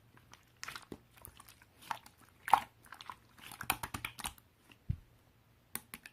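Slime being squished and pressed by hands, giving irregular sticky crackles and clicks, one sharper pop about two and a half seconds in.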